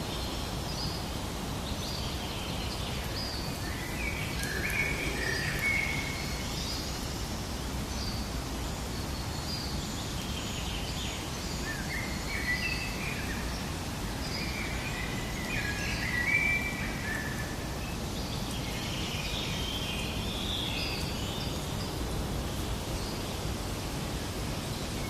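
Forest ambience: several birds singing and chirping in short repeated phrases over a steady low rushing background noise.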